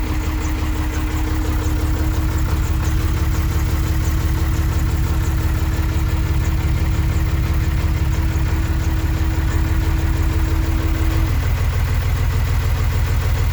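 John Deere 3155's six-cylinder diesel engine idling just after a cold start in 7-degree cold, running rough ('she ain't happy'). A steady whine runs alongside and stops about eleven seconds in.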